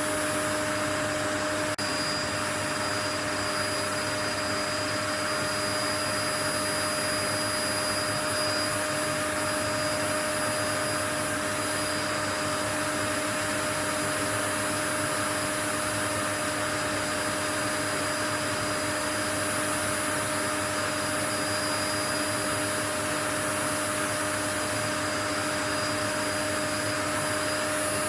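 Steady, unchanging white-noise hiss with a few faint steady tones in it.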